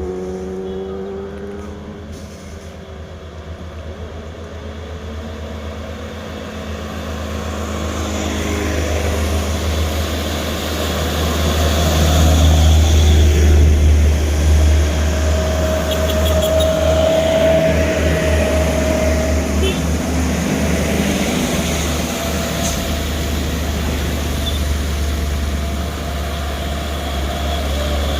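Heavy diesel trucks labouring up a highway hill with a steady deep engine rumble. The traffic grows louder to a peak about twelve seconds in and stays loud.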